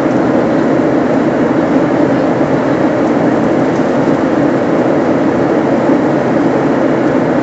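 Steady engine and airflow noise heard inside a passenger airliner's cabin, a continuous low rush without change.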